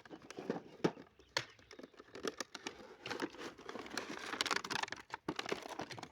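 Crinkling plastic packaging and tape being torn while a box is unpacked, with scattered sharp clicks and knocks; the rustling gets busier about halfway through.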